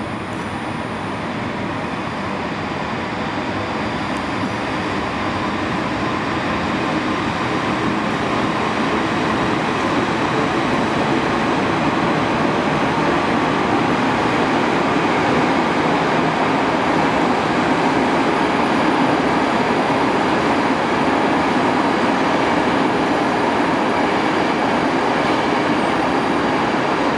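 A train running in the station, a steady noise that grows gradually louder over the first twenty seconds or so and then holds level.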